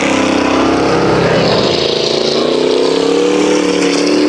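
Several V8 stock cars racing past at full throttle, loud, with several engine notes overlapping and shifting in pitch.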